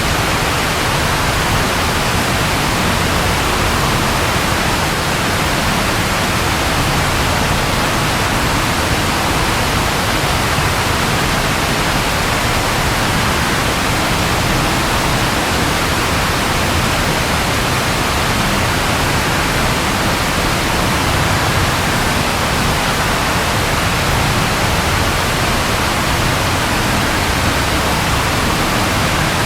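Rain falling steadily, an even hiss that does not change, with no thunder.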